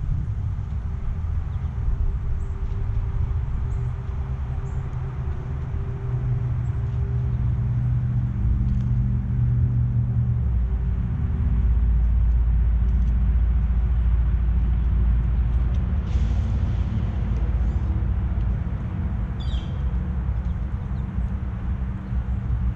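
Low, steady rumble of an engine running, growing louder in the middle and easing off again, with a couple of short bird chirps near the end.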